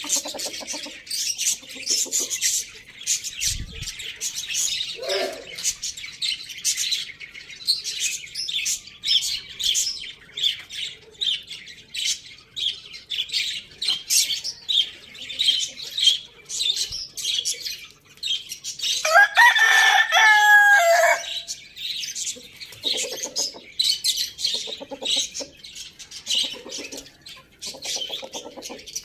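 A rooster crowing once about two-thirds of the way in, a call of about two seconds and the loudest sound, over the steady high chirping of many small birds. Low clucking of chickens follows the crow.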